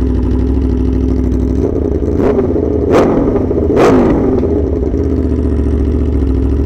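Aprilia Tuono V4R's V4 engine idling, revved up briefly a couple of times between about two and four seconds in, then settling back to a steady idle. Heard through a microphone inside the rider's helmet.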